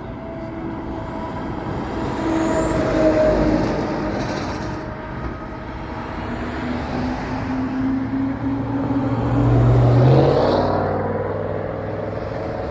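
Motor vehicles passing on the road, their engine and tyre noise swelling to a loud peak about three seconds in and again about ten seconds in. The second vehicle's engine tone drops in pitch as it goes by.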